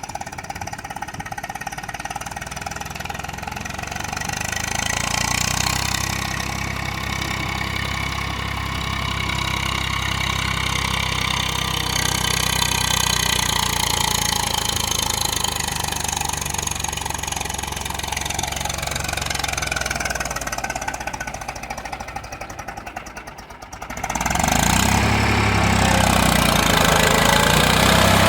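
Tractor engine running steadily with a knocking beat. Near the end it fades briefly, then comes back louder.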